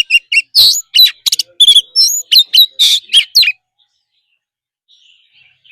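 Oriental magpie-robin singing a fast, varied string of loud whistled and chattering notes, some sliding up or down in pitch. The song stops about three and a half seconds in, and faint soft twittering follows near the end.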